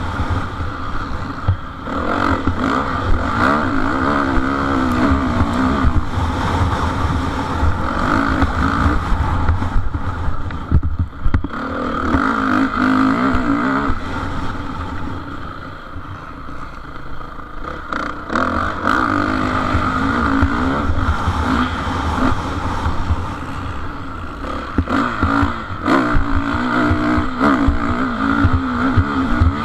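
Motocross motorcycle engines revving and easing off as bikes race round the track, the pitch rising and falling with each throttle change. The sound dips briefly about a third of the way in, grows quieter past the middle, then swells again.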